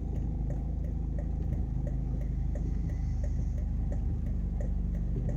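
A car's hazard-light flasher relay clicking at a steady, even rate over the low hum of the engine idling, heard inside the cabin.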